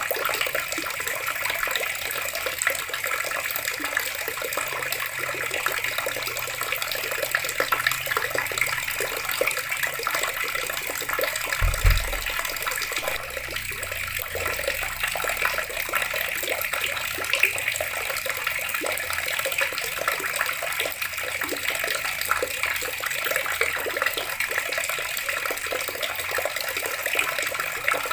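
Water running steadily from a tap, an even splashing hiss. A brief low thump sounds about twelve seconds in.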